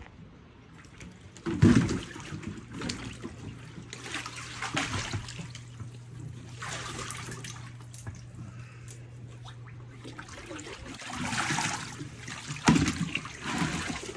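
Water trickling and splashing, swelling and fading in several bursts, over a steady low hum that stops about two-thirds of the way through.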